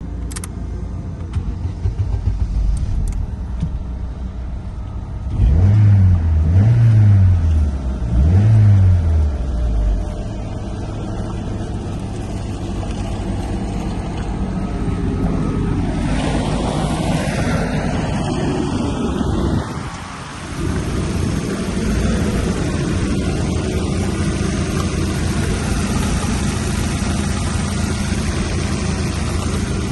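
Opel Z16XEP 1.6-litre four-cylinder petrol engine idling, with three quick revs about five to ten seconds in, each rising and falling back to idle, then settling to a steady idle.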